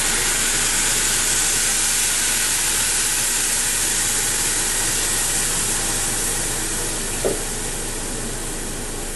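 Orange juice sizzling and steaming in a hot pan of oil and sautéed sauce ingredients: a steady hiss that slowly dies down as the liquid cools the pan.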